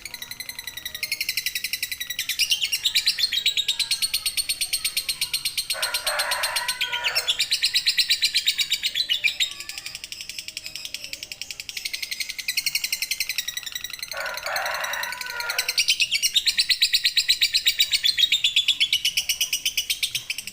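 Lovebird 'ngekek panjang': long runs of very rapid, high-pitched chattering notes, pausing and starting again several times. Twice, a little after a quarter and a little after two-thirds of the way through, a lower, harsher call of about a second and a half breaks in.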